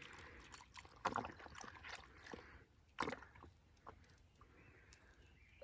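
A dog lapping water, a few faint, irregular wet laps and splashes that die away toward the end.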